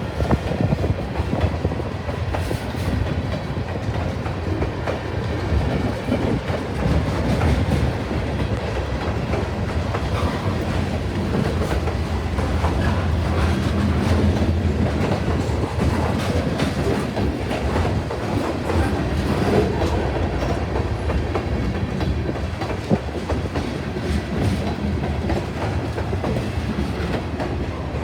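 A passing train's cars rolling by, the wheels clicking over rail joints with a steady rumble.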